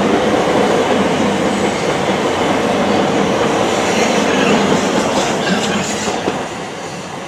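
Southeastern Electrostar electric multiple unit running through the station close by, its wheels rumbling and clattering over the rails. The noise fades away near the end as the train moves off.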